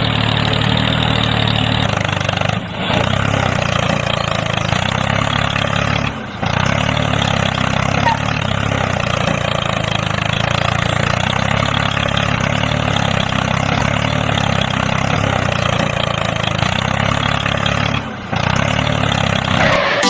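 Tractor engine running steadily, with brief dips in level three times.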